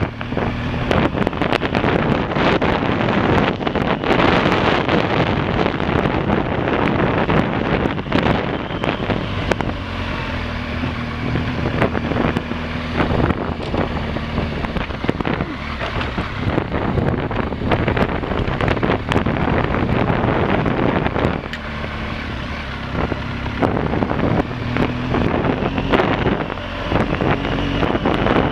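Motorcycle engine running under way, its pitch shifting now and then with the throttle, with wind buffeting the microphone.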